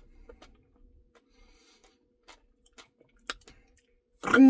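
Faint, scattered mouth clicks and smacks of someone eating ice cream. Near the end comes a short, loud hum from a man's voice, held on one steady note.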